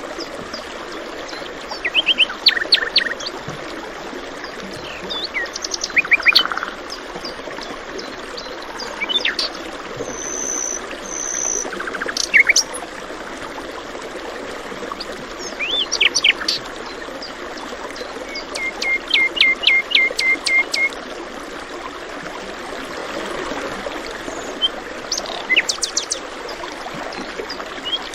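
Several birds chirping and calling in short, scattered phrases over the steady rush of flowing water. A run of about eight quick, even chirps comes a little past halfway, and two short held high whistles come about ten seconds in.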